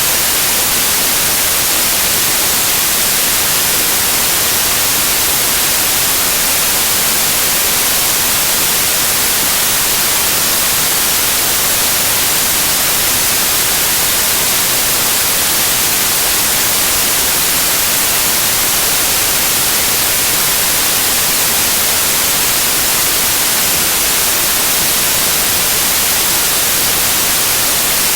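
Loud, steady white noise: an even hiss, strongest in the treble, with no change.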